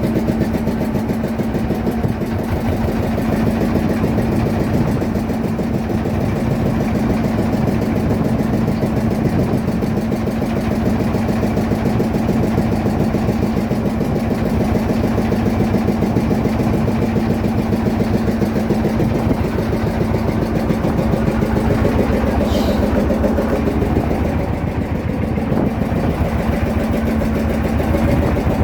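Fishing boat's engine running steadily under way, a constant drone with a rapid even beat.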